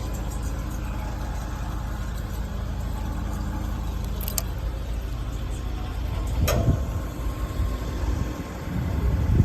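Kawasaki Ninja 250's parallel-twin engine running through a Nojima full exhaust: a steady idle note for about four seconds, then a sharp click a little over six seconds in, followed by louder, uneven surges of exhaust sound near the end.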